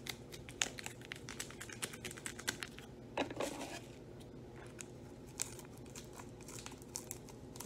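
Scattered light clicks and taps with some crinkling, from kitchen utensils and packaging being handled; a slightly louder clatter comes about three seconds in.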